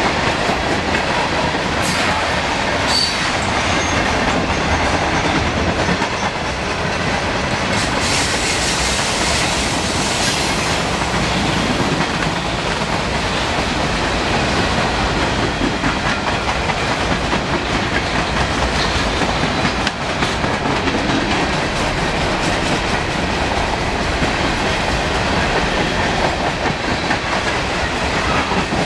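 Freight cars of a Norfolk Southern train rolling past at close range: a steady rumble and clatter of steel wheels on the rails.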